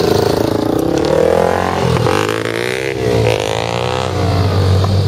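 Honda XR250R dirt bike engine revving, its pitch dropping and climbing again twice in the middle, over a steady low engine hum.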